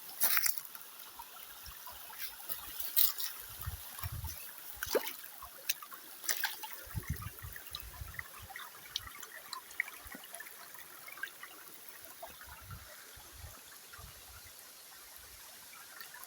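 Water trickling steadily, with scattered small clicks and a few short low thumps.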